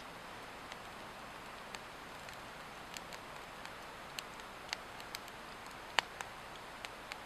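Swedish torch log fire burning, with irregular sharp crackles and pops over a steady hiss; the loudest pop comes about six seconds in.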